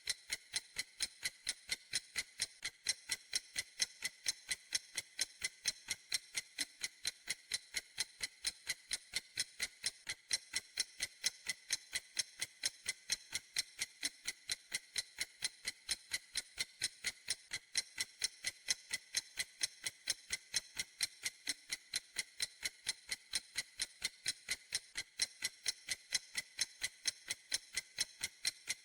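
Clock ticking steadily: a fast, even train of sharp, high clicks, several a second.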